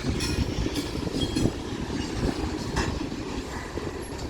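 Freight train cars rolling past, a steady low rumble of wheels on rail with irregular clacks and knocks.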